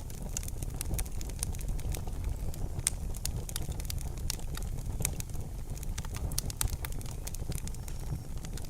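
Wood fire in a fireplace crackling: frequent small, sharp pops at irregular intervals over a steady low rumble of the burning.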